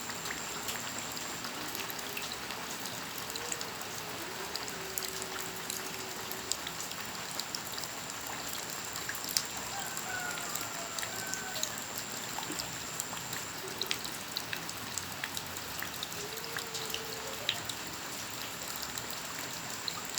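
Steady rain falling, with many sharp individual drops and drips landing close by.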